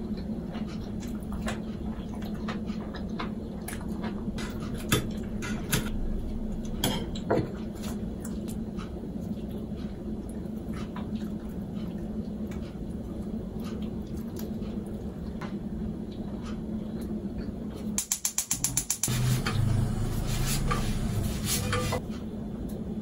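A person chewing pizza close to the microphone, with small scattered crunches and mouth clicks over a steady low hum. Near the end the hum stops, a quick run of rattling ticks follows, and then a louder stretch with a low tone.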